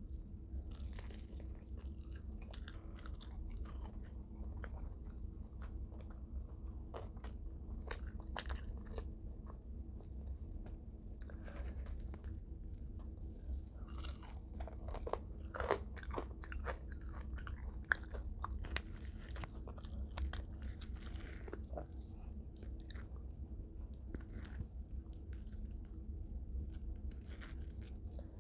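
Close-miked chewing and biting into extra crispy fried chicken, with irregular crunching and crackling that is busiest in the middle. A steady low electrical hum runs underneath.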